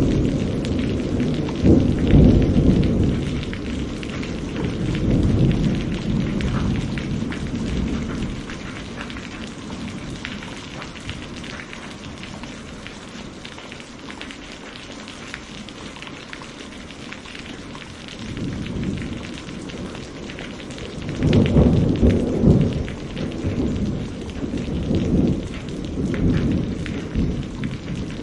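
Steady rain with rolling thunder. Long low rumbles swell through the first few seconds, fade out through the middle, and return more strongly in the last third.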